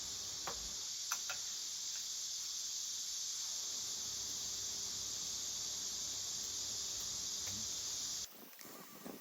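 Dense, steady chorus of summer insects, a continuous high-pitched buzzing, with a few faint clicks in the first second and a half. It cuts off abruptly about eight seconds in, leaving a quieter, lower, irregular rustle.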